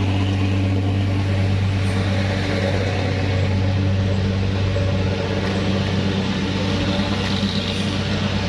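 A vehicle engine running at a steady speed: an even, unchanging low drone.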